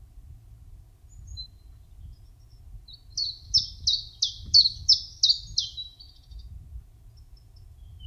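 A small songbird sings one phrase of about seven repeated high, down-slurred notes, about two a second, ending in a short trill. A couple of faint single chirps come before and after it.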